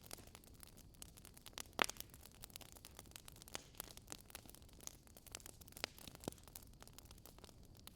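Campfire crackling: irregular sharp pops and snaps of burning wood over a faint steady hiss, with one louder pop about two seconds in.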